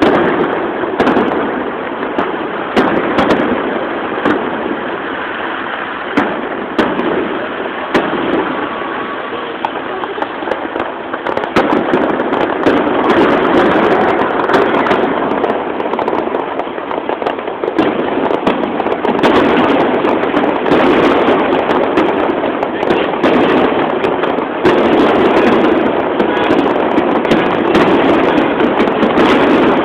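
Fireworks display: aerial shells bursting in a long run of bangs over a continuous din, growing thicker and louder in the second half.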